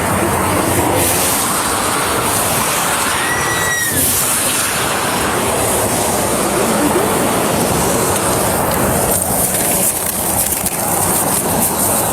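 Steady roar of road, wind and engine noise from highway police-chase footage, with a brief high chirp about three seconds in.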